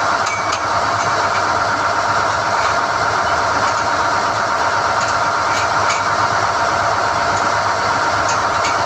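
SDH-1600 core drilling rig running steadily while NQ drill rods are hoisted from the hole, with a few sharp metallic clinks, about half a second in, near six seconds and near the end.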